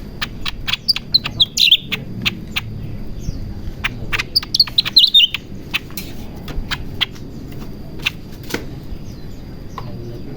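A cucak ranting songbird in breeding condition calling: a string of sharp chips with two quick runs of high, falling notes, about a second and a half in and again about five seconds in.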